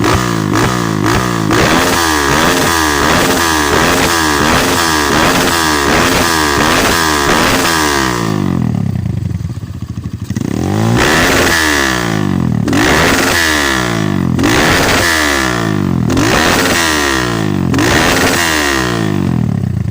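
Motorcycle engine revved through an aftermarket exhaust: quick throttle blips about twice a second, a drop back to idle about nine seconds in, then a run of longer revs that rise and fall about every two seconds.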